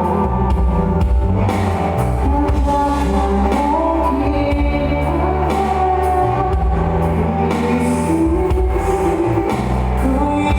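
Band music, an instrumental passage with guitar, bass and a drum kit and no singing.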